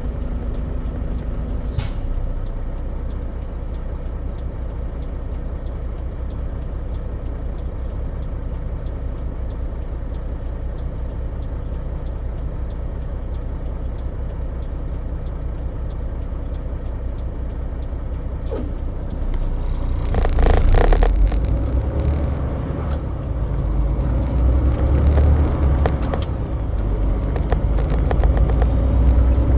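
Semi truck's engine running steadily while driving, with road rumble. About two-thirds of the way through comes a brief loud burst of noise, and after it the rumble grows louder.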